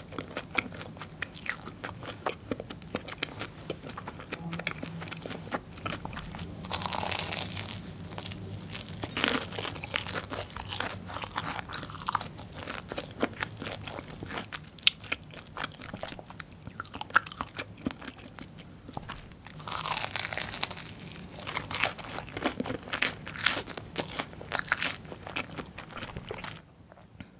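Close-miked biting and chewing of a crunchy, crumb-coated Korean corn dog: crisp crunches and clicks with wetter chewing between, in louder bouts about seven seconds in and again around twenty seconds.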